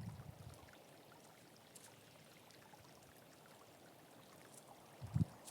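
Faint, steady rush of a small stream flowing close by, with two short low thumps, one at the start and one near the end.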